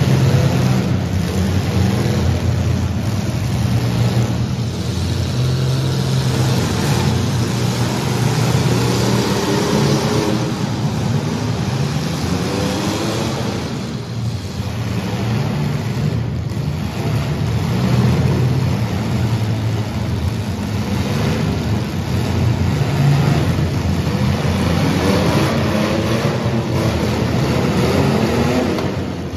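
Engines of several compact demolition derby cars running and revving hard together, their pitch rising and falling throughout.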